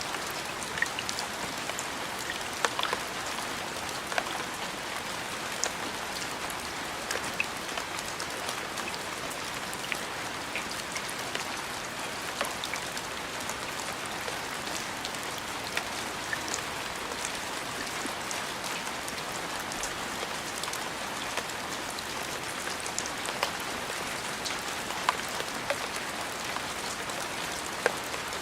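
Steady rain: an even hiss of falling rain with scattered louder, sharp drop ticks every second or so.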